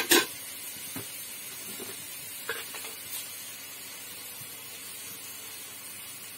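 Chopped amaranth greens with grated coconut sizzling with a faint steady hiss in a steel kadai. Two sharp knocks of a utensil against the pan come at the very start, then a few lighter taps.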